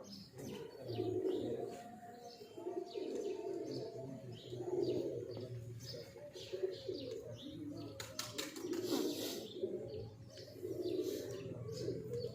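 Pigeons cooing over and over in low, throaty phrases, with small birds chirping higher up. A brief clatter of sharp clicks comes about two-thirds of the way through.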